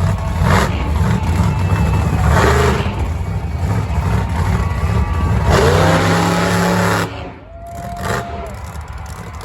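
Monster truck engine running loud with a heavy low rumble; it revs up, rising in pitch, about five and a half seconds in, then cuts off abruptly about seven seconds in.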